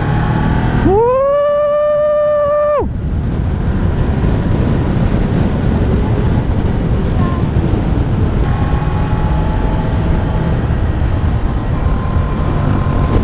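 Steady riding noise of a Rusi KR200 dirt bike on the move: wind rushing over the microphone with the engine running underneath. About a second in, a horn gives one long blast of about two seconds that cuts off sharply.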